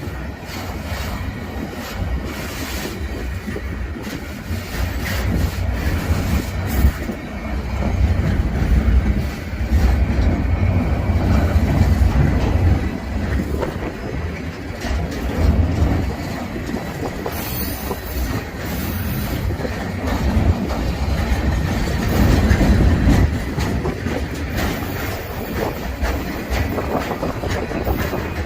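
Freight train rolling past, its cars rumbling and clacking over the rails, with a faint wheel squeal held underneath.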